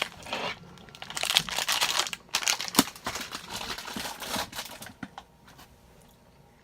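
Snack packaging crinkling and rustling as it is handled, with many small crackles, for about five seconds before dying down.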